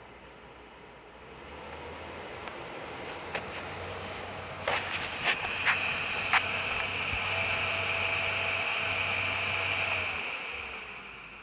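Dyson HP07 purifier fan heater running, its airflow rising as it speeds up, holding, then winding down near the end. Several sharp clicks come in the middle, and a steady high-pitched whine rides over the air noise: the noise the unit developed after a week of use.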